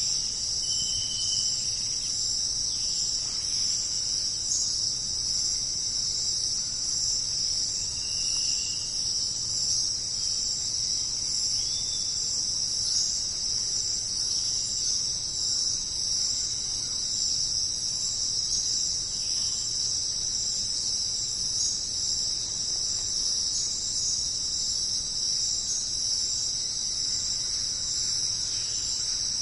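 Dense jungle insect chorus, a steady high-pitched trilling that never lets up, with a couple of brief whistled calls near the start.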